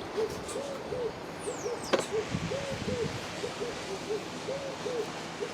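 A bird calls in a continuous string of short, low hooting notes, in groups of two or three. About two seconds in there is a single sharp knock.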